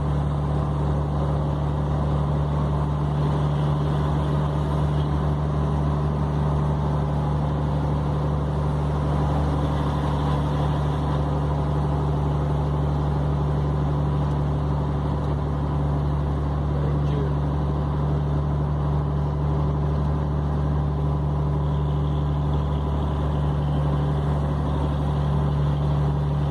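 Scania 113 truck's diesel engine running steadily under way, a constant low drone with tyre and road noise.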